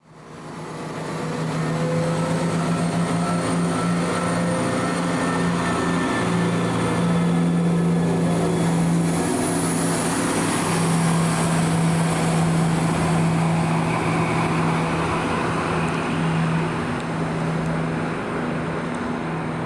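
Diesel train engine running with a steady, even drone. A hiss swells up around the middle and eases off again.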